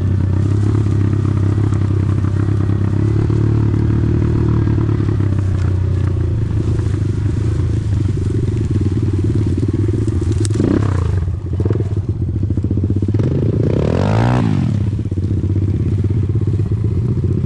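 Small off-road engine running steadily at low speed on the trail, briefly revving up and back down a little past halfway and again near the end.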